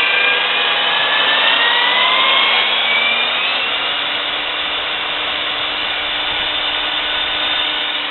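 Milwaukee 4208-1 magnetic drill's electric motor running in forward. Its whine rises in pitch over the first three seconds or so as the variable speed control is turned up, then holds steady.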